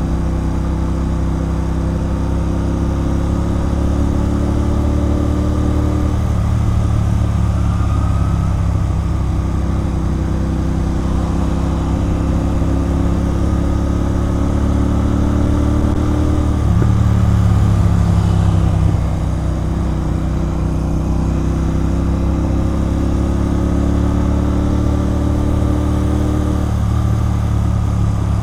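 Royal Enfield Continental GT 650's 648 cc parallel-twin engine running through a loud aftermarket Red Rooster Performance exhaust while riding. The exhaust note holds steady, breaks briefly and picks up again a few times, and runs louder for a couple of seconds past the middle.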